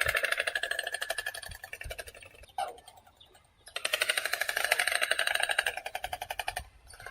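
Stork clattering its bill: a rapid, dry rattle of clicks in bouts, breaking off for about a second near the three-second mark and again shortly before the end.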